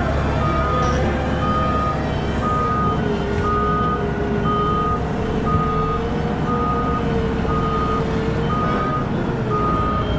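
Reversing alarm of a Caterpillar 972M XE wheel loader, a steady high beep repeating about once a second, over the machine's diesel engine running.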